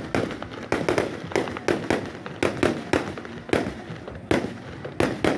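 Fireworks exploding in quick, uneven succession: about a dozen sharp bangs, each with an echoing tail.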